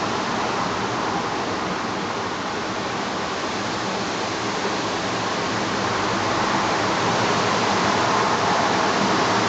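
Strong wind at about 8 m/s blowing as a steady rushing noise that swells slightly louder in the second half.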